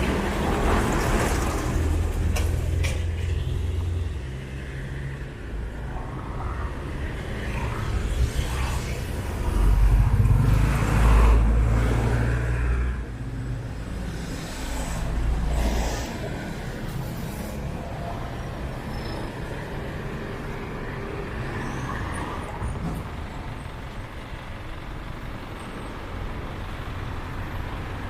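Street traffic: cars and other motor vehicles driving past close by, their engines rumbling, with the loudest pass about ten seconds in.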